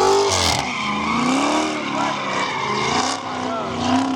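A car being drifted: its engine revs up and down over and over while the tyres squeal and skid, with a harsher burst of tyre noise about half a second in.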